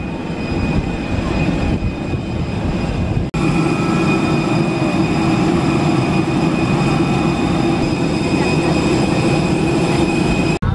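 Steady running noise of a moving vehicle, a continuous rumble with a faint high whine. It cuts abruptly to a louder, similar shot about three seconds in.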